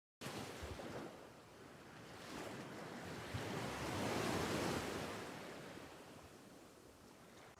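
A steady rushing noise that swells to a peak about four seconds in and then slowly fades, much as surf washing in sounds.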